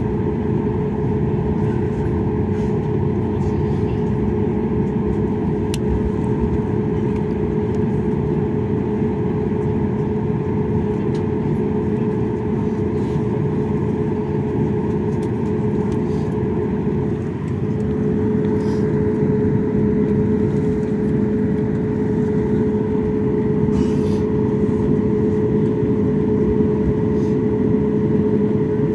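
Airliner cabin noise while taxiing after landing: a steady drone with a steady hum, which dips briefly about seventeen seconds in and then runs a little louder.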